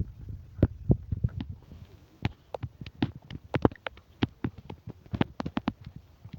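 A run of irregular sharp knocks and taps from hard objects striking, some much louder than others, over a low rumble.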